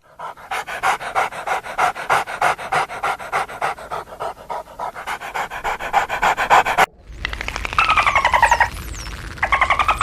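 Dog panting rapidly and evenly, several breaths a second. Near the end it cuts off abruptly and a different sound follows: a wavering, pitched cry with high whistling glides.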